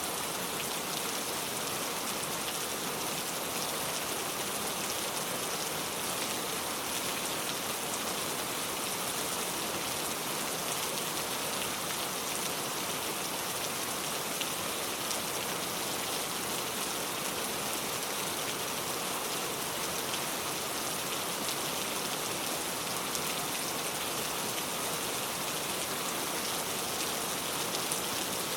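Steady rain falling on a car, a continuous patter of drops on the body and glass.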